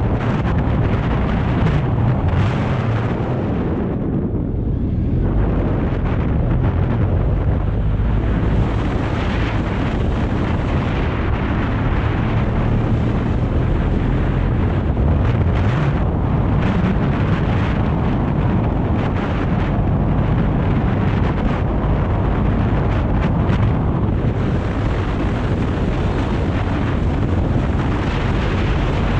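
BMW R 1250 GS boxer-twin engine running on the move, its pitch rising and falling with the throttle, under heavy wind rushing over the microphone.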